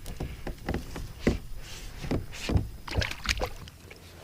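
Irregular knocks and taps on a kayak hull, about a dozen, as a small chain pickerel is handled and unhooked aboard.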